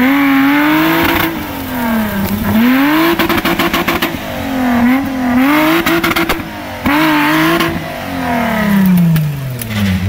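Roll-caged off-road 4x4's engine revving up and down over and over as it claws its way up out of a deep muddy rut. There is a short burst of rapid clatter about three seconds in.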